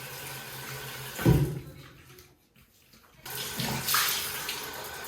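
Running water, a steady rushing that drops away for about two seconds and then comes back, with a low thump about a second in.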